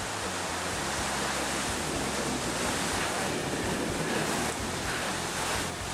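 Heavy, wind-driven rain pouring down in a severe thunderstorm, with gusting wind: a steady, dense rush of noise.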